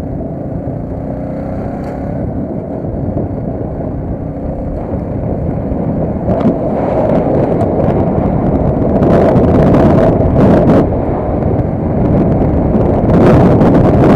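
Motorcycle engine running while riding, getting louder from about six seconds in, with wind buffeting the microphone in short gusts.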